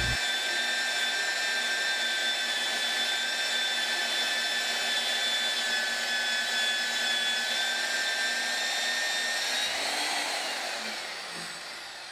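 Hougen HMD115 magnetic drill's motor running steadily with a high whine as its annular cutter bores into metal. About ten seconds in, the pitch rises briefly, then falls away and the sound fades as the motor winds down.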